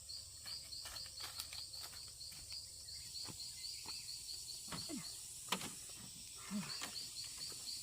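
An insect chirping in a fast, even pulse of about four chirps a second. It pauses briefly past the middle, then resumes. Scattered sharp clicks and knocks sound through it, the loudest a little past halfway.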